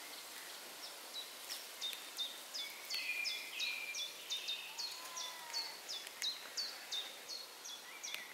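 A small songbird repeating a short, sharp high call note over and over, about two to three times a second, with a few lower slurred notes in the middle, over a faint steady forest hiss.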